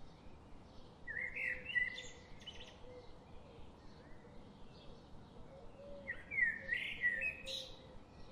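A songbird singing two short warbled phrases, one about a second in and another about six seconds in, with fainter bird chirps and a steady hiss behind.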